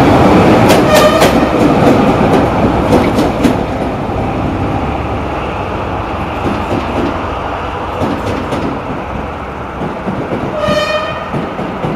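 A train rolling past close by, wheels clacking over rail joints, its rumble fading as it moves off; near the end a short locomotive horn blast, about half a second long.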